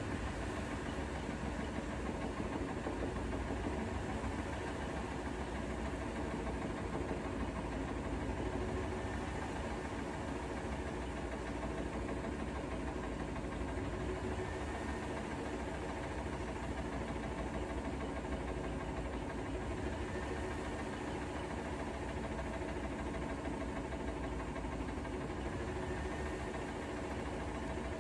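Bosch Serie 4 WAK20260TR front-loading washing machine partway through a wash cycle, its drum motor running with a steady hum and low rumble. A faint short rising whine recurs every five or six seconds.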